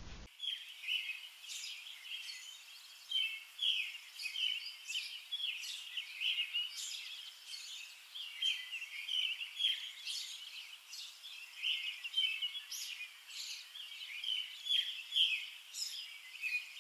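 Small birds chirping, short high calls repeating about once or twice a second.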